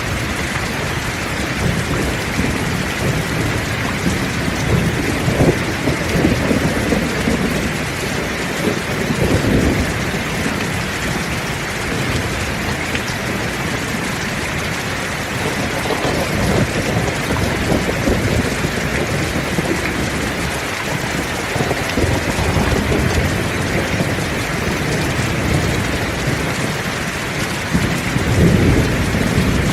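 Heavy rain falling steadily, with rolls of thunder rumbling low underneath that swell and fade several times and build again near the end.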